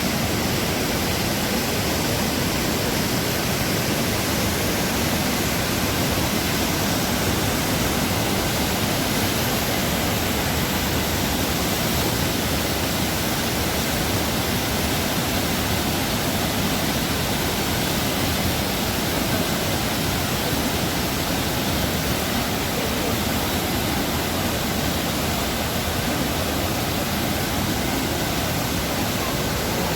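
Steady, unbroken rush of water from the Dubai Water Canal's artificial waterfall pouring into the canal.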